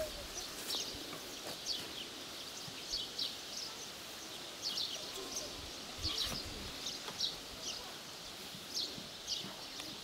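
Small birds chirping: short, high, falling chirps that come in little clusters every second or so, over a faint outdoor background.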